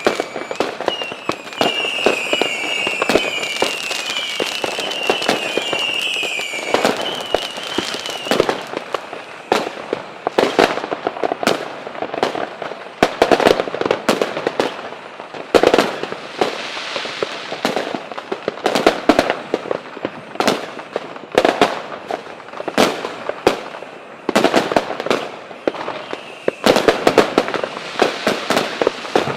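A fireworks display: a dense run of bangs and crackling bursts throughout, with a wavering high whistle over the first eight seconds or so.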